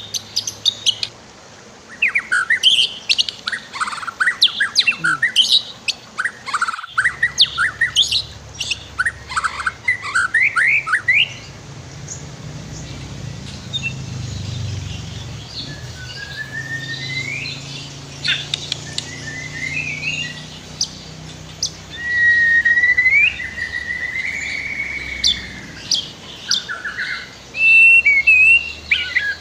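White-rumped shama (murai batu) singing: a fast run of sharp chirps and trills that breaks off about a second in and resumes, then slower rising whistled notes and a long warbling whistle a little past the two-thirds mark.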